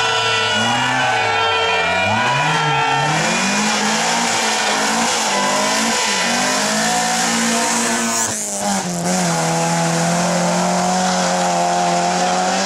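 Historic rally car engine revving hard, its pitch rising and falling repeatedly, with a sharp drop about eight seconds in and then holding steady at high revs.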